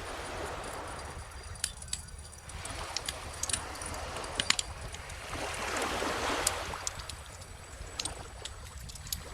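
Wood bonfire crackling with frequent sharp pops over small ocean waves washing ashore. The surf swells and fades several times, loudest about six seconds in, over a steady low rumble.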